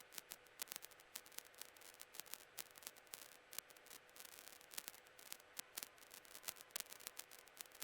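Near silence on the helicopter's cockpit audio feed: faint crackling static with irregular clicks, several a second, over a faint steady hum.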